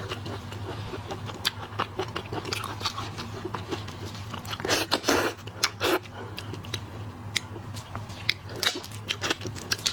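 Close-miked mukbang eating sounds of someone chewing and biting into shrimp: irregular wet clicks and crunches, busiest around the middle. A steady low hum runs underneath.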